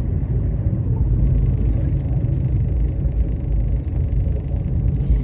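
Low, steady car rumble.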